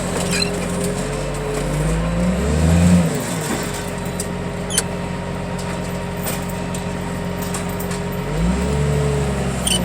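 Heavy machine engine running steadily, revving up and back down twice: once about two seconds in and again near the end.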